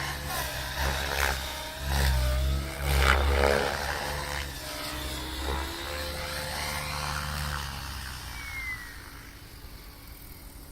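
Radio-controlled 3D stunt helicopter flying aerobatics: the rotor blades chop and whoosh in pulses while the motor's pitch rises and falls with each manoeuvre. It surges loudest a few seconds in, then grows quieter near the end.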